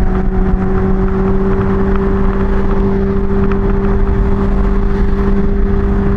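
Kawasaki Ninja H2's supercharged inline-four running at a steady cruising speed, holding one constant engine note, with heavy wind rush on the rider's microphone.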